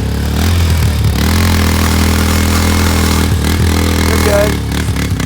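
Yamaha's engine running steadily, its pitch dipping and picking back up a few times as the throttle changes.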